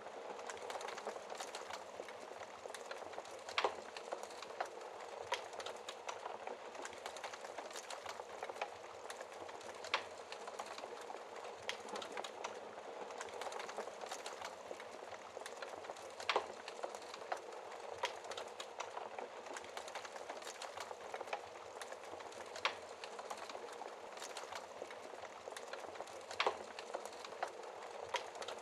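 Wood fire in a fireplace crackling steadily, with a soft hiss of flames under many small snaps and a few louder sharp pops spaced several seconds apart.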